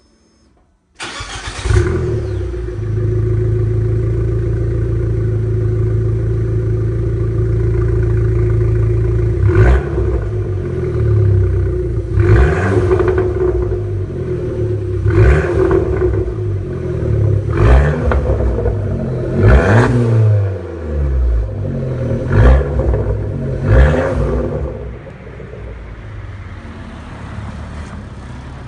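Abarth 500's turbocharged 1.4 T-Jet four-cylinder, through a loud aftermarket Magneti Marelli exhaust, starts suddenly about a second in with a loud burst and settles to a steady idle. From about a third of the way in it is blipped about seven times, each rev rising and dropping sharply. It then falls back to a quieter idle near the end.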